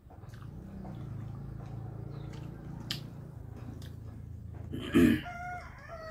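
Close-up chewing and mouth sounds of a man eating rice and chicken curry by hand, with small clicks of fingers on the steel plate. About five seconds in there is a loud smack, followed by a short rooster call near the end.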